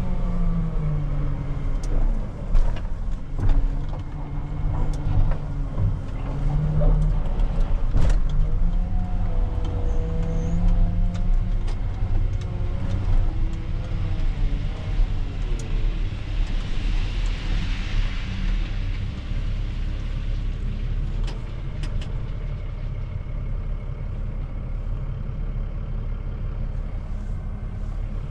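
Diesel engine of a heavy loading machine working, its revs rising and falling again and again, with scattered knocks and clanks. It settles into a steadier run in the second half.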